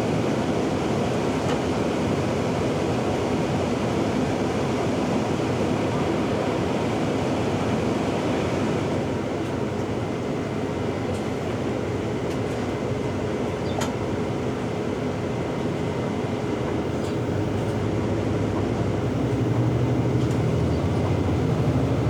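Steady interior noise of a TTC shuttle bus in motion: engine and road rumble, with a deeper engine drone building up about three quarters of the way through.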